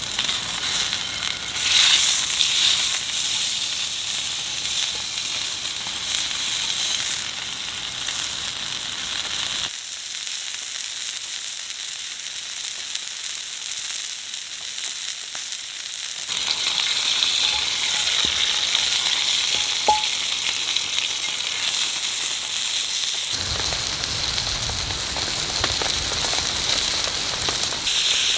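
Food sizzling and frying in a pan, a steady crackling hiss that changes in character abruptly three times.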